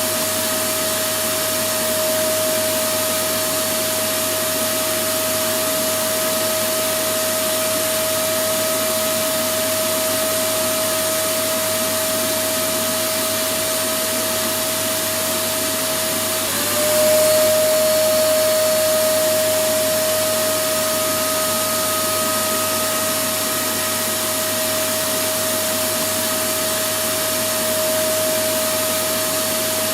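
Electric vacuum cleaner running steadily: an even rushing hiss with a constant motor whine. About halfway through, the whine dips briefly in pitch and the sound swells slightly for a few seconds before settling back.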